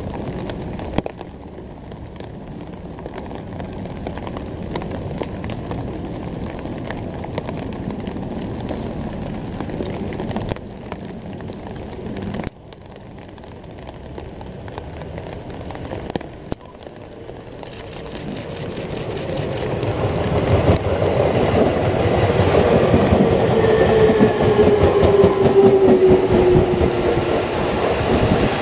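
Steady background hiss, then an electric commuter train on the Musashino Line approaches and runs close past. Its wheels clatter over the rail joints, and its motor whine falls in pitch as it goes by.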